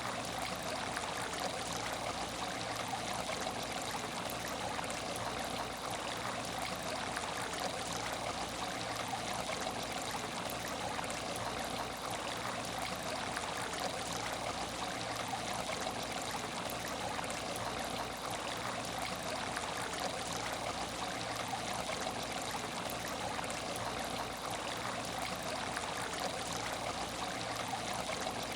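Water in an aquarium tank trickling and splashing steadily and without a break, with a faint steady low hum beneath.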